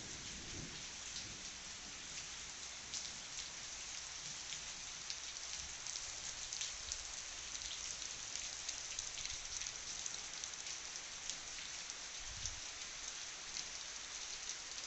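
Heavy rain falling steadily, a dense hiss of drops striking surfaces with many small sharp ticks. A low rumble comes briefly just after the start and again about twelve seconds in.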